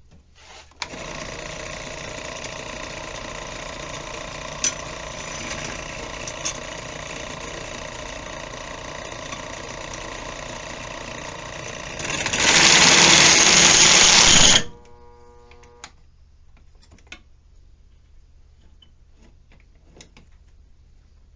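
Electric drill motor running steadily as it bores a hole through a metal plate, getting much louder for about two seconds near the middle before it is switched off and winds down.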